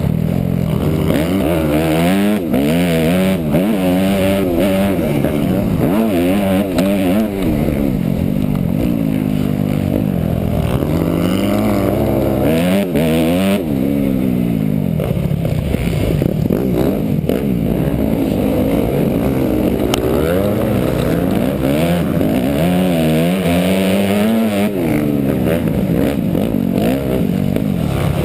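Motocross bike engine being ridden hard, its pitch climbing and dropping again every second or two as the throttle is opened and shut, heard from on board the bike, with occasional knocks.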